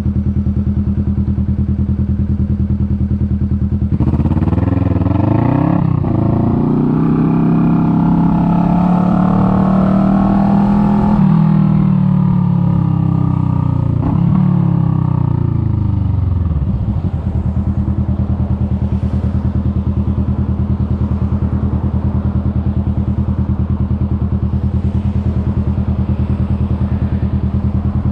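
Kawasaki Vulcan S 650's parallel-twin engine idling steadily, then pulling away about four seconds in, shifting up, and running at speed. It slows back down to idle about two thirds of the way through, then idles steadily again.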